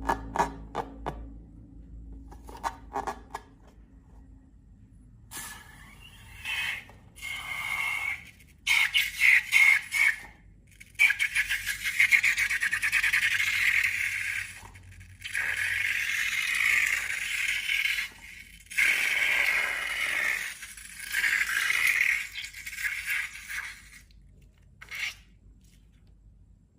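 Repeated rough, crackly scraping strokes during slime making, each lasting one to three seconds, after a few faint clicks and taps.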